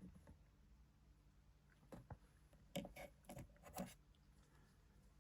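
Near silence with a few faint soft clicks and rustles between about two and four seconds in: small plastic toy figures being handled.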